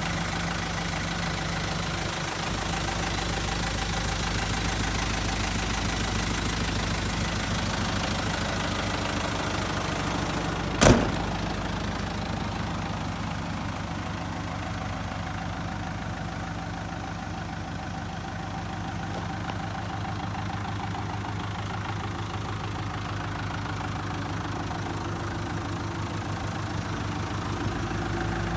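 Mitsubishi Rosa's 4D35 four-cylinder diesel engine idling steadily. A single sharp knock sounds about eleven seconds in.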